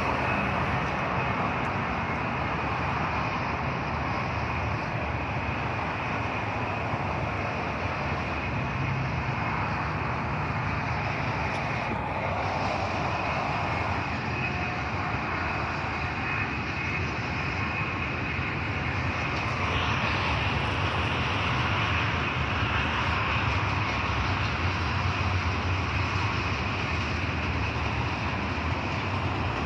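A train rolling past with a steady rumble and wheel noise that holds at an even level throughout.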